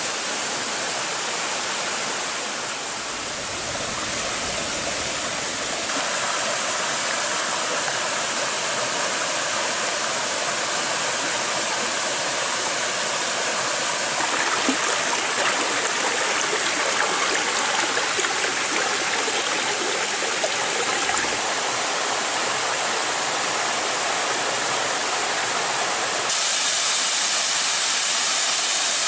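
Small waterfall pouring and splashing into a pool: a steady rush of falling water, growing a little louder about 6 seconds in and again near the end.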